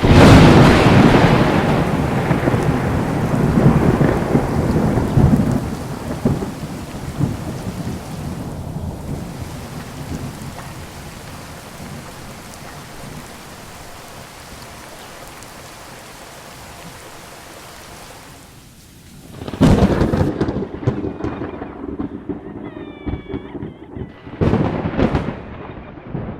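Thunderstorm: a loud thunderclap at the start rolls away over several seconds into steady rain, and a second thunderclap comes about twenty seconds in. Near the end a few short, high, wavering cries sound over the rain.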